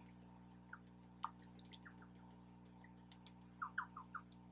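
Near silence: quiet chewing, with faint scattered wet mouth clicks and a cluster of small squeaks a little after three seconds in, over a steady low hum.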